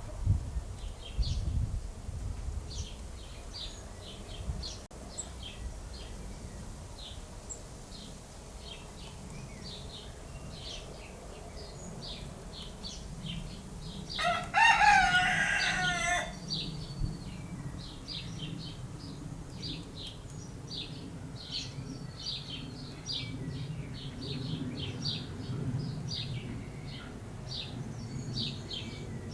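Small birds chirping continuously while a rooster crows once, about two seconds long, halfway through. There is a low background rumble, and a few low thumps come near the start.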